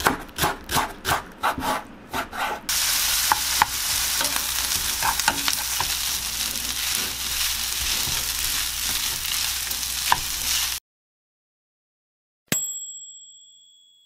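Knife chopping green onion on a wooden cutting board in quick strokes. Then a pan of bacon fried rice sizzling in oil while it is stirred with a wooden spatula, with scattered clicks of the spatula, until the sizzle cuts off suddenly. About 12 seconds in, a single bright bell ding rings and fades away.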